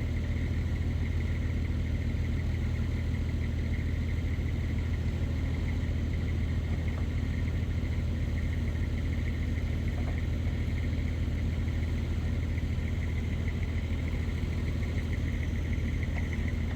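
Heavy diesel engine running at a steady speed, with a thin, steady high whine over it.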